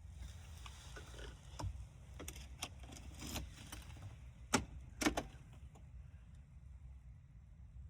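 Keys jangling and a series of sharp clicks and knocks from handling the key and controls of a Land Rover Defender 300Tdi, the two loudest knocks about halfway through, over a low steady rumble; the diesel engine is not yet running.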